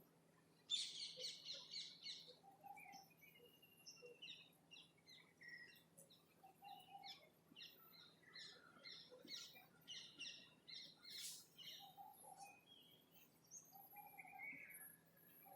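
Several birds chirping and calling, with a bright burst of rapid chirps about a second in. A short, low call repeats every few seconds underneath.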